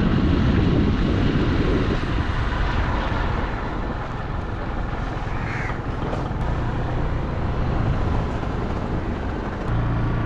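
Motorbike underway: wind buffeting the microphone over the steady low hum of the engine, which grows louder near the end. A short high call sounds about halfway through.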